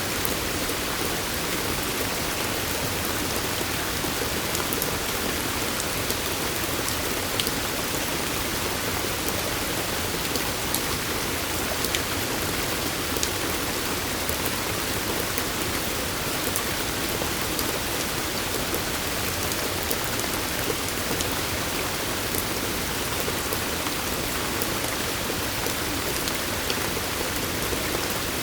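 Steady water noise with scattered sharp ticks of individual drops.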